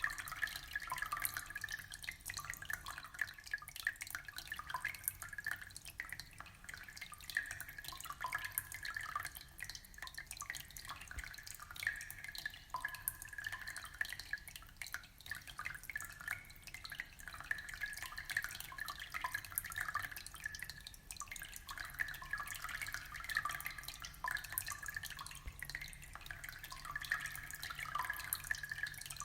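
Aquarium water trickling and bubbling: a steady, dense run of small drips and plinks.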